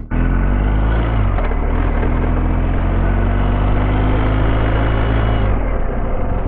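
BMW R1250GS boxer-twin motorcycle engine running steadily under way, with a heavy low rumble and a slight shift in pitch about a second in.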